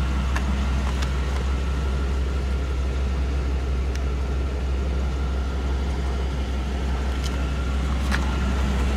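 Low, steady hum of a 350 V8 (5.7 litre) with throttle-body fuel injection idling quietly, heard from inside the car, with a few faint clicks.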